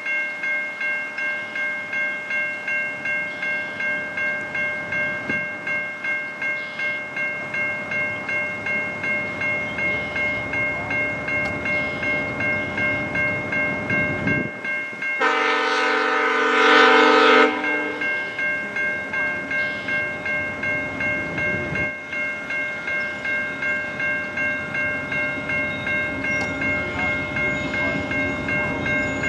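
A bell ringing steadily at about two strokes a second as a passenger train approaches slowly. About halfway through, the locomotive's horn sounds one chord for about two and a half seconds, growing louder before it cuts off, and then the bell carries on.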